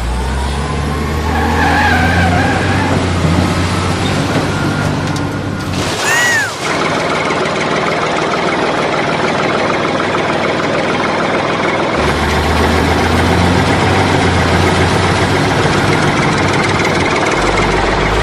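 Truck engine running steadily and loudly, with a brief interruption and a short pitched glide about six seconds in before the engine sound resumes.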